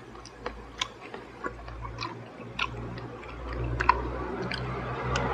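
Close-miked chewing of crispy fried chicken (ayam geprek): a run of small, sharp, wet mouth clicks and crunches, irregularly spaced.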